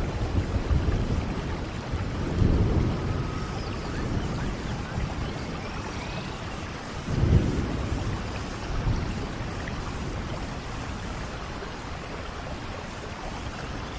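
Steady rain with rumbles of thunder swelling about two and a half and seven seconds in, the later one the loudest, then easing off.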